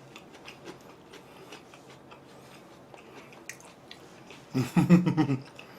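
Faint chewing and small clicking mouth sounds of someone eating wood-fired rotisserie chicken, with a short burst of voice about three-quarters of the way through.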